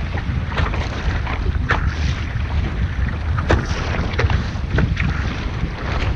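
Wind buffeting the microphone aboard a small sailing boat, a steady low rumble, with short splashes of water against the hull every second or so.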